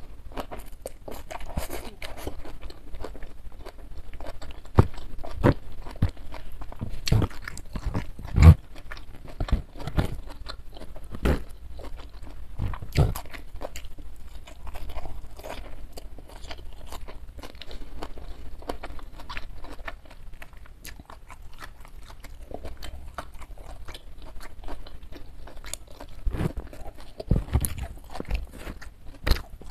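Close-miked eating: chewing and crunching with many sharp, irregular mouth clicks, the food including boiled fern shoots. The loudest crunches come between about five and thirteen seconds in and again near the end.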